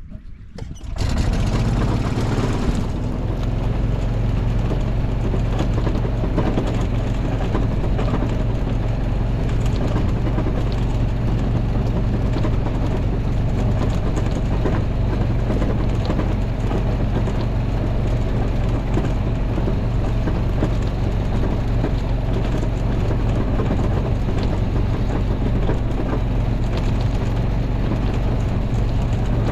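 Small off-road vehicle's engine running steadily as it drives over the wet ground, with a steady low hum. It comes up sharply about a second in and then holds.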